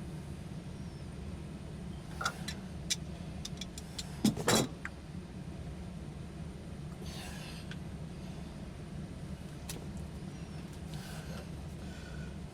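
Sharp clicks and knocks from hand tools and gas pipe fittings being worked on a gas water heater, ending in a short, louder clatter about four seconds in, over a steady low hum.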